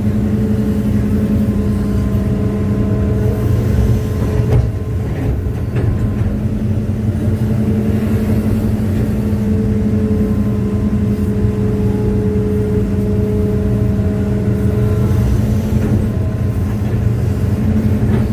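Hitachi excavator's diesel engine running steadily under load, with higher steady whining tones above it. The engine eases off briefly a few seconds in, then picks up again. The machine is bogged and tilted in soft ground.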